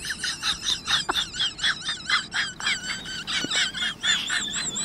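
Birds chirping in a rapid run of short, high-pitched calls, about four or five a second, each call rising and falling in pitch.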